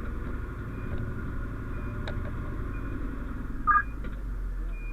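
Fire engine running with a steady low rumble. A short high beep repeats about once a second, and a louder two-note electronic beep sounds near the end.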